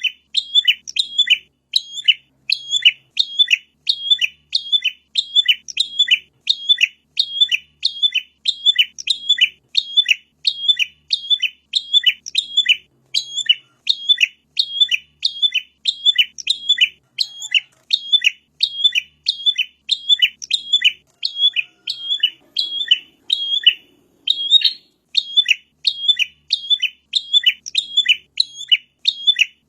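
Prenjak (prinia) song: sharp chirping notes repeated evenly and rapidly, about two a second, in a long unbroken series with only a brief pause near the end. This is the prenjak's call as used in masteran recordings to lure wild birds.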